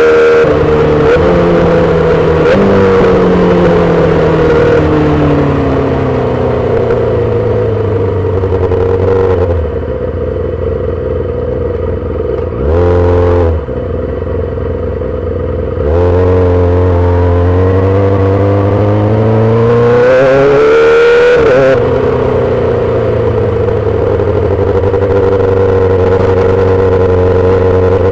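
2008 Yamaha R6 inline-four through a full SC-Project exhaust, heard from the rider's position. The engine note falls as the bike slows, then goes quieter and low for several seconds, with one quick throttle blip near the middle. About sixteen seconds in it pulls up through the revs, drops sharply on a gear change, and settles into a steady cruise.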